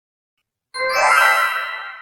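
A bright chime sound effect with many high ringing tones that starts suddenly about three-quarters of a second in and rings out, fading.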